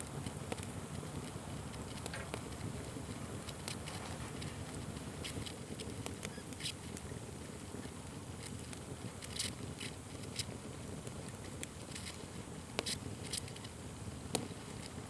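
Wood fire burning, with a steady low rush under scattered sharp crackles and pops. Several louder pops come in the second half.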